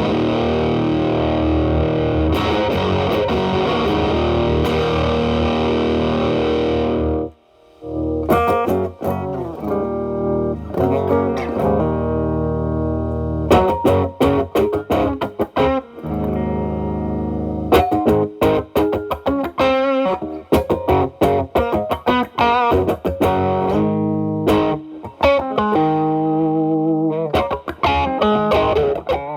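Telecaster electric guitar through an E.W.S. Brute Drive distortion pedal at maximum gain into a Marshall Valvestate amp's drive channel: a heavily distorted chord held for about seven seconds, then cut off suddenly. After that the guitar is cleaned up, playing picked single notes and chords with far less distortion.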